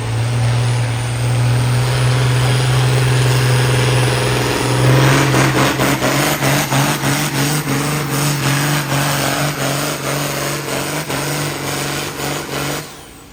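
Pulling tractor's engine running hard at high, steady revs under load. About five seconds in its pitch rises a little and a rapid clatter joins it; the sound cuts off suddenly near the end.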